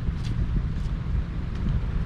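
Wind buffeting the microphone: a loud, unsteady low rumble, with a few faint short ticks above it.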